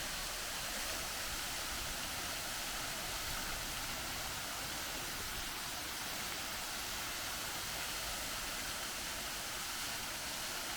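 Waterfall crashing onto rocks close by: a steady, even rush of falling water, strongest in the hiss.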